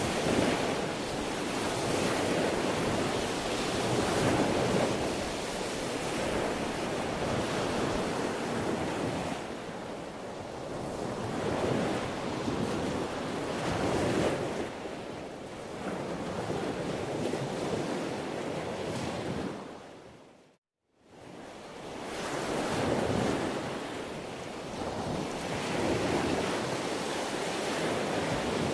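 Sea waves washing ashore in a steady surge-and-ebb rhythm, swelling every few seconds. About two-thirds of the way through, the sound fades briefly to silence and then fades back in.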